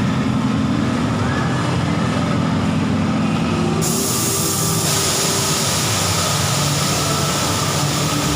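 Kiddie airplane ride running, with a steady mechanical hum and noise; a loud hiss starts abruptly about four seconds in and keeps going.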